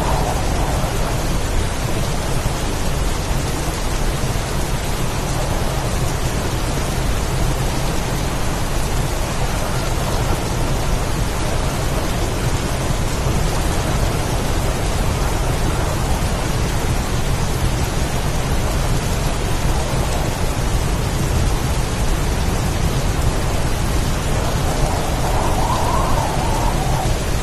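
Heavy rain pouring in a wind-driven storm, a dense steady hiss over a continuous low rumble, with a brief swell in the mid range near the end.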